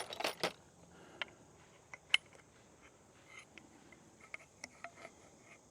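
Scattered light metallic clicks and clinks of a pin being fitted through a kayak landing-gear handle and leg, a few close together at the start, then single ones every second or so.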